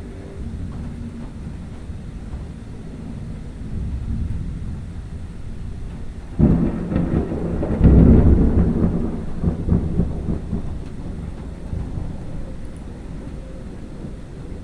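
Thunder: a low rumble, then a sudden loud crack about six seconds in that swells again a second later and rolls off slowly over several seconds.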